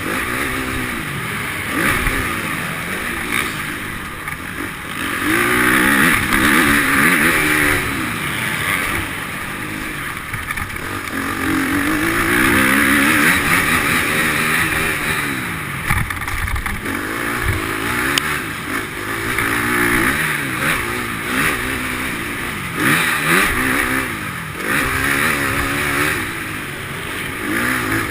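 Motocross bike engines revving up and down in an indoor hall, their pitch climbing and dropping again every couple of seconds as the bikes ride the track.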